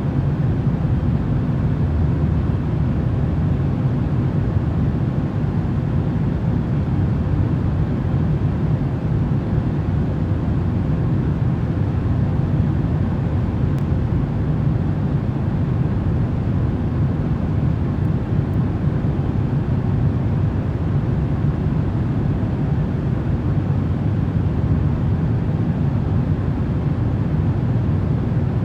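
Steady airplane cabin drone used as a sleep sound: a deep, even rush of noise with faint steady hums above it.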